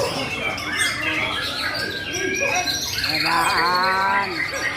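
White-rumped shama of the Tangse strain singing hard: a continuous, varied stream of whistled notes and quick pitch glides, with a longer, lower drawn-out note about three seconds in.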